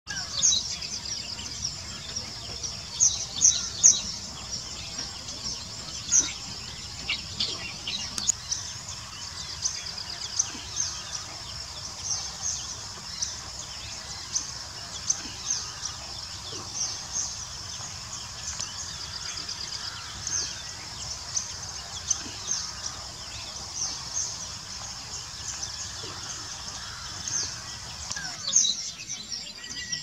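Songbirds chirping, many short, sharp, high-pitched calls coming irregularly, over a steady high-pitched hum in the background.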